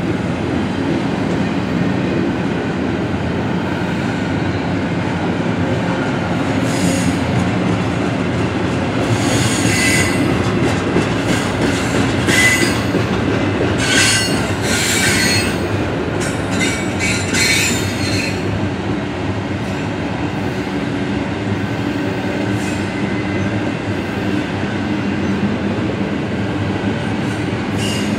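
Double-stack intermodal freight train rolling past: a steady low rumble of loaded container well cars on the rails, with bursts of high-pitched wheel squeal in the middle stretch.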